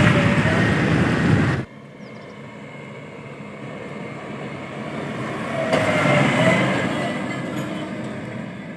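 JCB 3DX backhoe loader's diesel engine working under load, loud at first, then cutting abruptly to a quieter stretch where it rises and falls, with brief high squeals.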